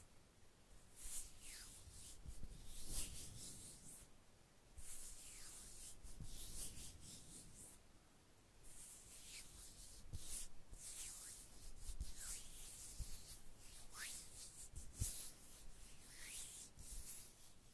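Soft, faint rubbing strokes of an ASMR skincare trigger sound, repeated irregularly about once a second, some strokes ending in a short falling swish.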